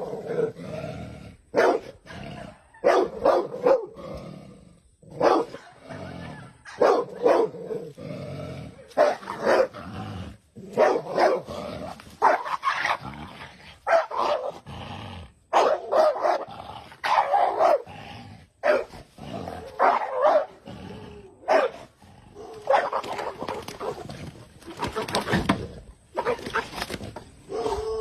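Cane corso barking repeatedly in short, irregular bursts.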